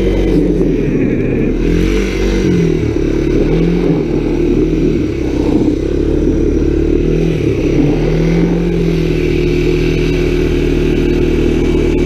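Honda ATC 250SX three-wheeler's single-cylinder four-stroke engine running while riding, its revs rising and falling several times with throttle, then holding steadier near the end.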